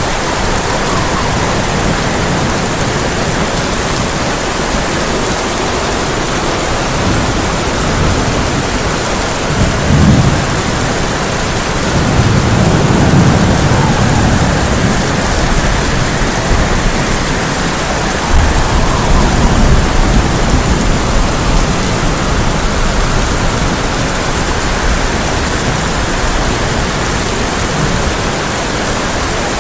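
Heavy rain drumming steadily on a tin roof, with thunder rumbling several times: a short peak about ten seconds in, then longer rolls a couple of seconds later and again just before the twenty-second mark.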